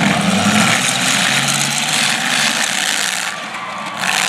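Several demolition derby cars' engines running loud and revving as they drive around the dirt arena. The din dips briefly a little past three seconds in and swells again near the end.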